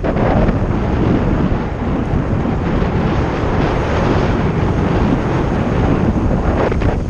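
Wind buffeting the helmet or bike camera's microphone during a fast mountain-bike descent, a loud steady rushing that keeps on without pause, with the rattle of the bike on the rough trail mixed in.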